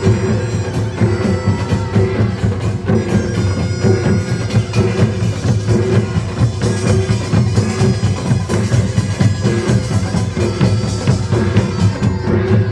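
Korean nongak farmers' band playing continuously: dense clanging gongs and pounding drums beneath a loud, nasal double-reed melody from a taepyeongso shawm.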